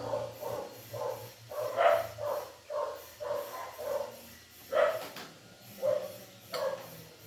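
A dog barking repeatedly in short, irregularly spaced barks.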